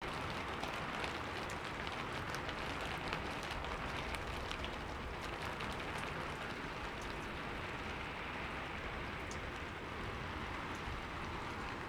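Steady rain falling, with individual drops landing as small ticks.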